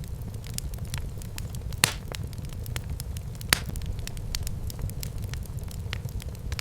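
Wood fire burning in a fireplace: a steady low rumble of flames with irregular sharp crackles and pops, two louder pops about two seconds in and a second and a half later.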